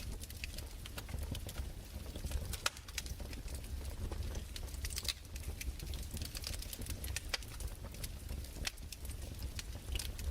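Crackling fireplace: irregular pops and snaps over a low steady rumble.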